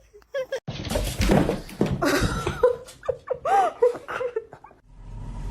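A dog giving short whines and yelps that rise and fall in pitch, mixed with laughter.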